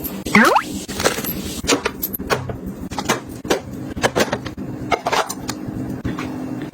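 Snack packets and plastic containers being handled, with many irregular clicks and taps and a short rising squeak near the start.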